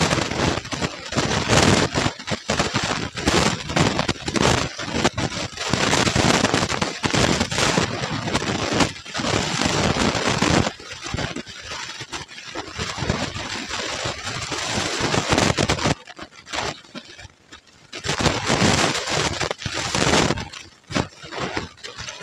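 Close-miked chewing of crunchy puffed rice (muri) mixed with ghugni, a dense crackle of small crunches that comes in spells and eases off about two-thirds of the way through, with a spoon scooping from a steel plate now and then.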